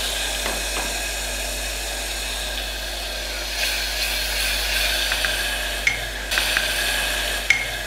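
Tomato, ginger and green chilli paste sizzling steadily in hot oil in a pressure cooker. Near the end it is stirred with a spatula, with a couple of sharp taps against the pot.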